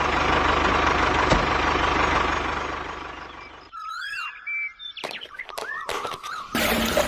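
A small motor running with a fine rapid rhythm, fading out about three and a half seconds in; short squeaky chirps and several bursts of noise follow.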